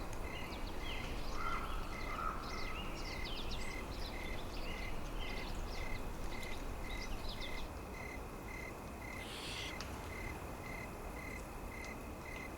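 Winter forest ambience: a steady low rumble of wind with small birds chirping in short high calls, thinning out after about eight seconds. A faint high pip repeats evenly about twice a second throughout.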